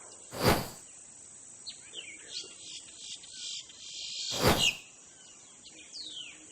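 Nature-ambience soundtrack of steady cricket chirring and scattered bird chirps. Two brief loud whooshes come about half a second in and again about four and a half seconds in.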